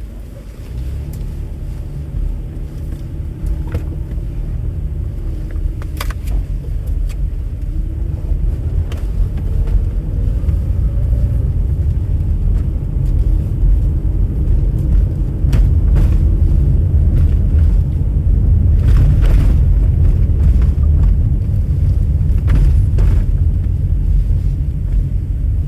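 Low, steady rumble of a car on the move, with a faint engine tone rising and falling and a few light clicks; the rumble grows louder over the first half or so.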